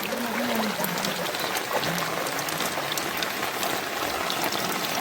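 Steady rain falling, with many individual drops ticking sharply over the hiss. A faint voice is heard near the start and again about two seconds in.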